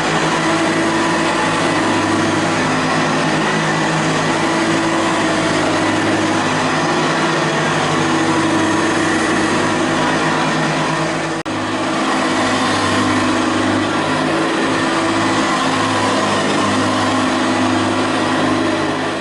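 Hoover Ranger Senior U4014 upright vacuum cleaner running on carpet: its motor hums steadily along with the belt-driven brush roll and beater bars. A brief drop in the sound comes a little past halfway.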